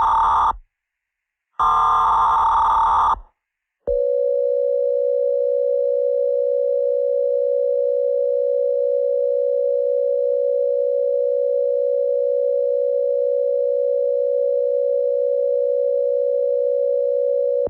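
Mock Emergency Alert System alert sequence. Two short, harsh digital header bursts of about a second and a half each, then a single steady electronic attention tone held for about 14 seconds that cuts off abruptly at the end.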